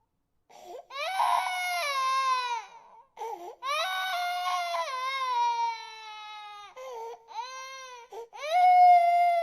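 Infant crying: a run of long wailing cries, each falling in pitch at its end, with short catches of breath between them. The loudest cry comes near the end.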